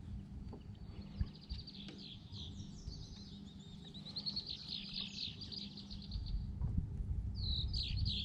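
A small songbird singing long, rapid, high trills: one runs for several seconds, and another starts near the end, over a low steady rumble.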